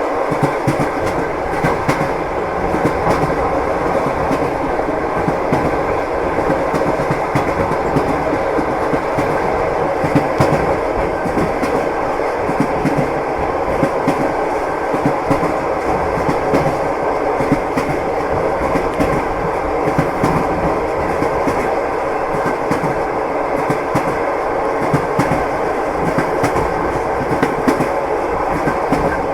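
Train wheels knocking over the rail joints in a steady clickety-clack, over the continuous rumble of the moving carriage.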